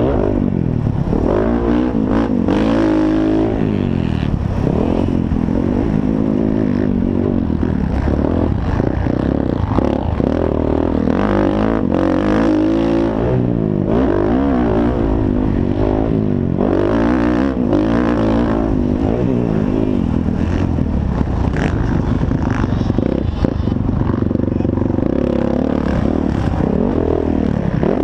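Motocross dirt bike engines racing, several bikes at once, revving up and dropping back again and again as they accelerate and shift, with a few knocks and clatters.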